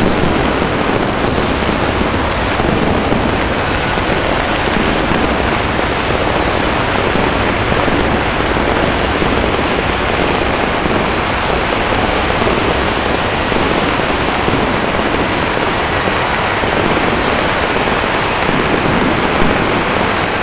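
Strings of firecrackers going off in a dense, unbroken crackle, so many bangs that they run together like a downpour, steady in level throughout.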